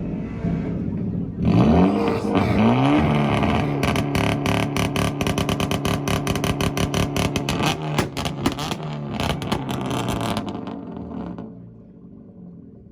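Performance car engine revved up twice, then held against a two-step rev limiter, stuttering with a rapid run of sharp pops for several seconds before it lets off and dies away near the end.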